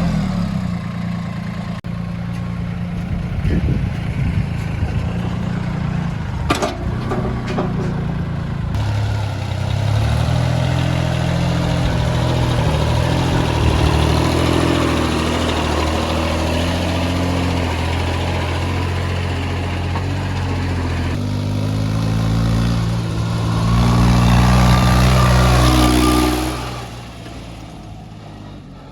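Mini tractor's diesel engine running steadily under load, with a few brief clicks or knocks in the first third. It gets louder near the end, then fades away.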